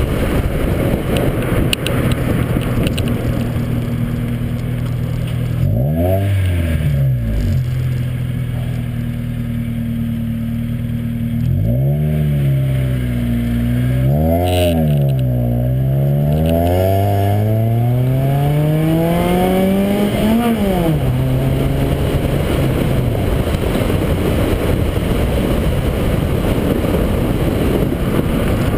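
Honda Civic engine heard from a camera on its front fender while driving, its note climbing and falling several times, with a long climb that drops off suddenly about twenty seconds in. Heavy wind buffeting on the outside-mounted microphone runs under it.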